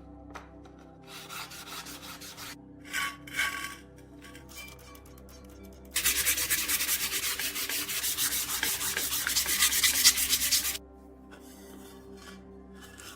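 Hand sanding or scrubbing of a stove part: a few short scrapes, then about five seconds of fast back-and-forth abrasive strokes that stop abruptly. Quiet background music plays underneath.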